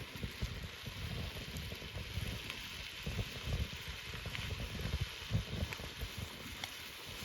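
Campfire crackling with scattered small sharp pops, under irregular low wind rumble on the microphone.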